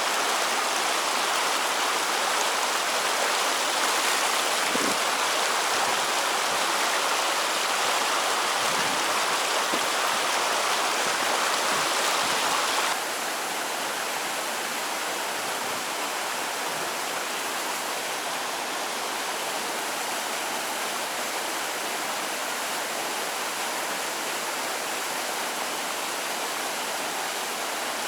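Steady rush of flowing river water, dropping somewhat in level all at once about halfway through.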